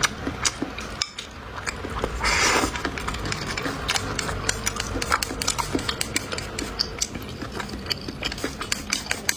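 Close-miked eating: wet chewing with many small clicks of utensils against dishes, and a brief louder burst of noise about two seconds in.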